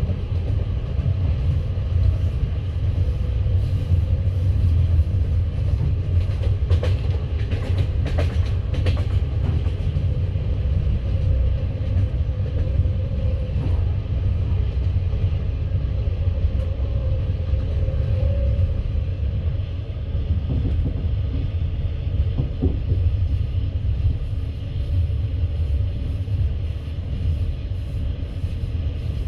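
Passenger railway coach running at speed, heard from inside the carriage: a steady low rumble of wheels on rails, with a few sharp clicks around 7 to 9 seconds in.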